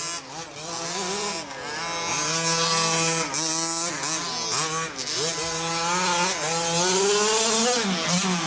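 Several small two-stroke engines of 1/5-scale gas RC trucks, such as the HPI Baja 5T, revving up and down as they race around the track, their buzzing pitches overlapping and rising and falling with the throttle.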